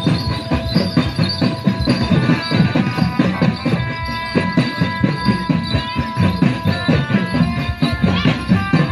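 Barongan gamelan music: fast, dense drumming with several ringing metal percussion tones sounding over it.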